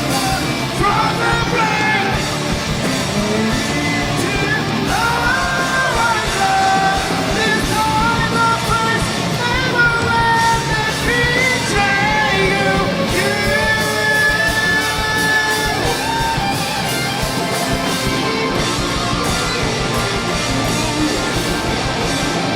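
Metalcore band playing live at full volume: distorted guitars and fast, steady drums, with a held melodic line bending over the top.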